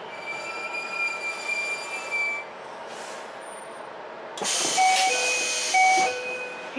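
Ichibata Electric Railway 7000 series train pulling to a stop with a high, steady brake squeal for a couple of seconds. Later comes a loud hiss of air as the doors open, with a two-note door chime sounding twice over it.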